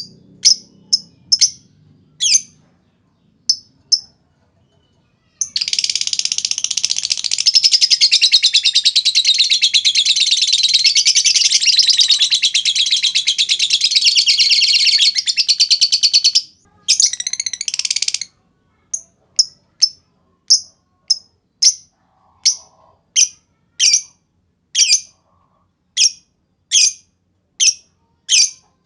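Lovebird calling: a few sharp high chirps, then from about five seconds in a long unbroken rapid chattering trill, the 'ngekek panjang', lasting about eleven seconds. After a short burst it goes on with single ticking chirps, the 'ngetik', evenly spaced a little under a second apart.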